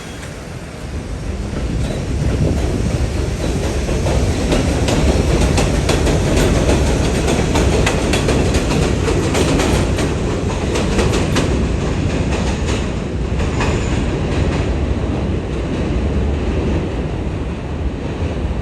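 New York City subway train running through the elevated 55th St station. Its rumble builds over the first two seconds and stays loud, with a run of rapid wheel clicks over the rail joints in the middle.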